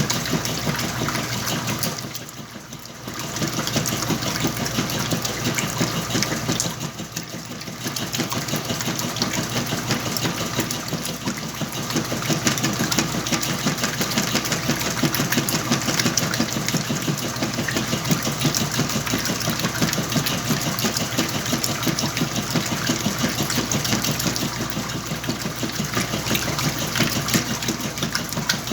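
Whirlpool washing machine running with a load of blankets, its motor and drum churning steadily with a fine rapid pulsing. The sound dips briefly twice in the first eight seconds.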